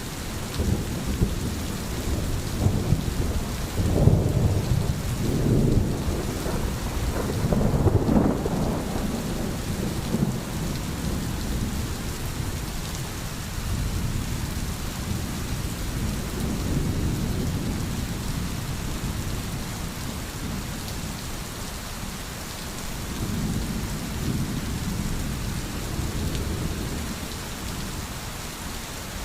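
Steady rain falling, with low rolling rumbles of thunder that swell about four to nine seconds in and again twice later.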